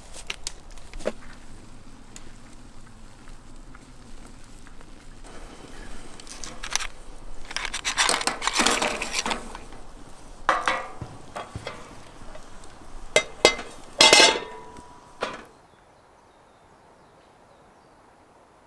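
Cooking utensils and dishes being handled: scattered clinks, knocks and scraping, with a few louder bursts. The handling stops suddenly about three-quarters of the way through, leaving only faint background.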